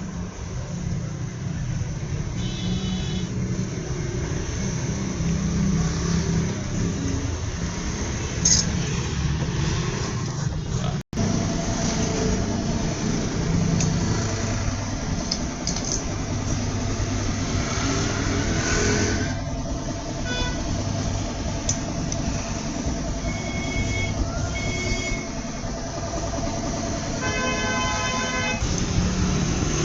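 Road traffic rumbling steadily, with vehicle horns honking in short blasts a few times, loudest near the end.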